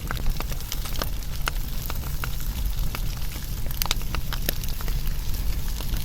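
Wood fire burning, with sharp irregular crackles and pops several times a second over a steady low rumble.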